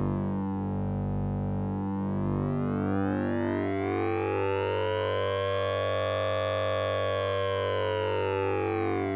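Synthesizer drone from the Orange Vocoder plugin's sync-and-ring sound: a steady low tone under a buzzy stack of overtones that slowly glide down, rise to a peak about six or seven seconds in, and begin to fall again, like a slow siren sweep.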